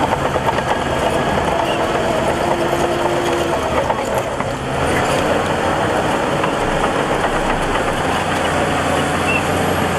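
Heavy diesel construction machinery running steadily, with a brief dip in level about four and a half seconds in.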